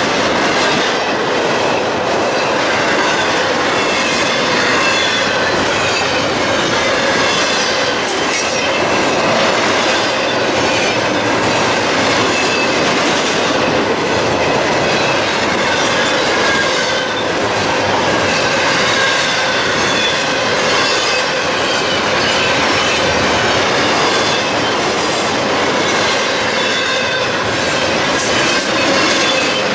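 A train's cars rolling past with a steady rumble of wheels on rail. Thin, high squealing tones from the wheels waver on and off throughout.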